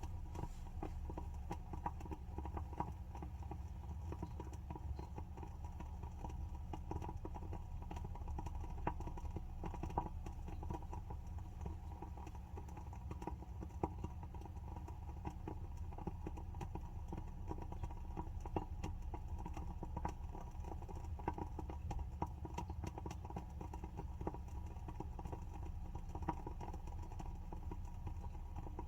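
WoodWick candle's wooden wick crackling as it burns: a dense, irregular stream of small pops and clicks, some louder than others, over a steady low hum.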